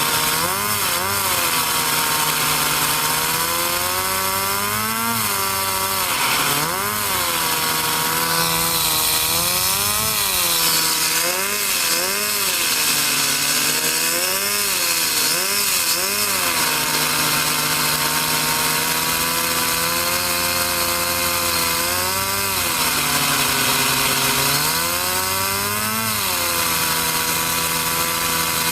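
Small LEGO vacuum-powered turbine whining and revving up and down in pitch again and again, with quick rises and falls in places and a longer steady stretch partway through, over a steady hum.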